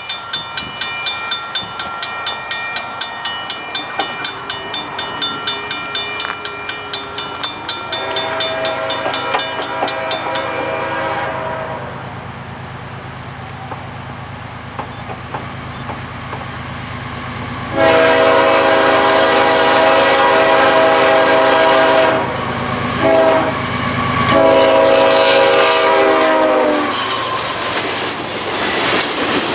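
Diesel locomotive horn sounding a series of blasts (long, long, two short, long) over the rumble of a passing train. For the first ten seconds a grade-crossing bell rings rapidly and evenly.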